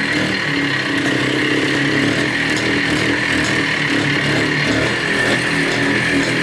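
Montesa Cota 247's two-stroke single-cylinder engine running at a steady speed, its pitch barely changing, on its first run after 42 years of storage.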